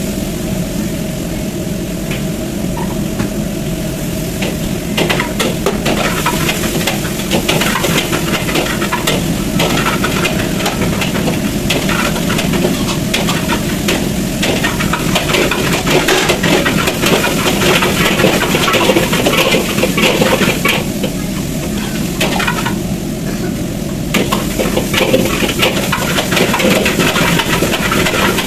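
Food sizzling in a wok over the steady low roar of a high-pressure gas burner, with a metal ladle stirring and scraping against the wok from about five seconds in. The stirring pauses briefly twice near the end.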